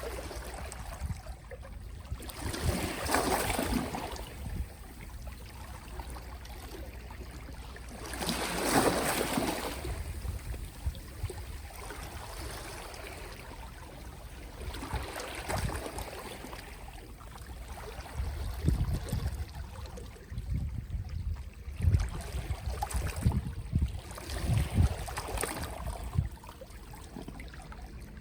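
Small, gentle sea waves washing in and drawing back on the shore, with a couple of broader swells of wash about three and nine seconds in. Low thuds come and go through the second half.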